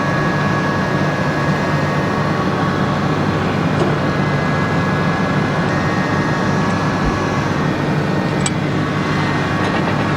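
Tractor engine running steadily under load while pulling a small square baler through the hay, with a constant drone and a faint steady whine.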